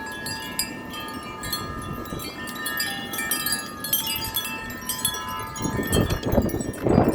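Several metal wind chimes struck over and over by strong gusts, with many overlapping ringing tones. Wind buffets the microphone with a low rumble that swells in two strong gusts near the end.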